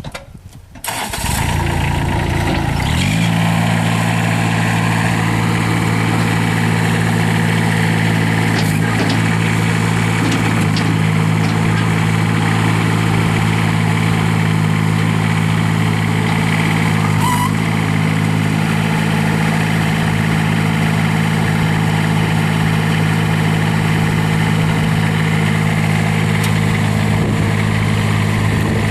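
Kubota three-cylinder turbo diesel in a Terramite T9 backhoe loader cranking and firing up about a second in, then settling within a couple of seconds into a steady, even run.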